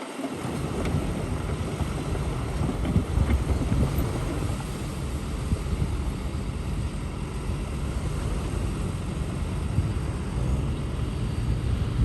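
Heavy diesel earthmoving machinery running steadily with a low rumble, with wind noise on the microphone.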